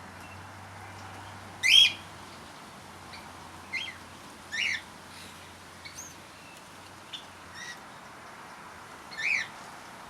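Birds giving short, high chirping calls, about seven scattered through, the loudest about two seconds in and another strong one near the end.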